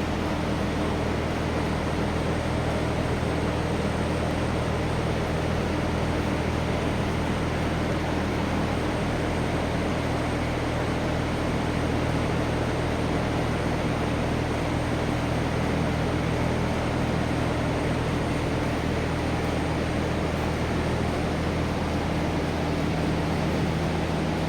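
Belt-driven industrial exhaust fan running at steady speed: a constant rush of air over a low motor hum.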